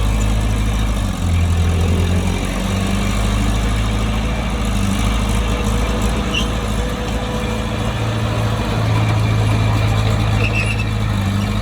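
Bulldozer's diesel engine running under load with a deep, steady drone, its note shifting about a second in and again near the end as the load changes. A couple of faint, brief high squeaks sound over it.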